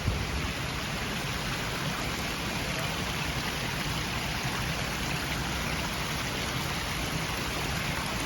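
Steady rush of running and falling water from fountains and streams, an even hiss with no change.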